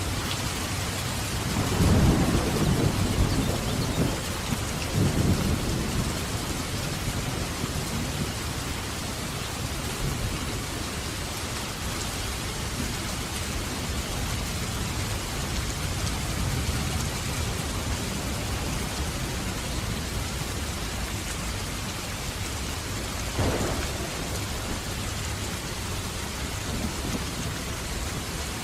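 Heavy rain falling steadily, with a low rolling thunder rumble starting about two seconds in and running for several seconds, and a shorter thunderclap later on.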